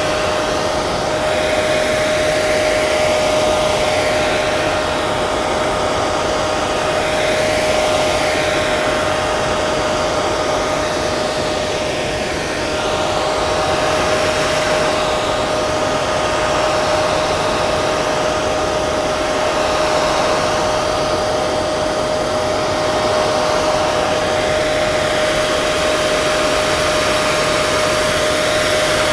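Hair dryer running steadily: an even rush of blown air with a steady motor whine.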